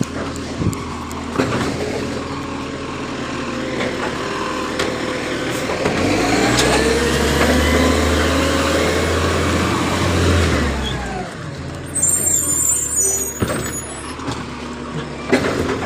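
Garbage truck's diesel engine running, revving up and holding for a few seconds before dropping back. A brief high squeal and a few knocks follow near the end.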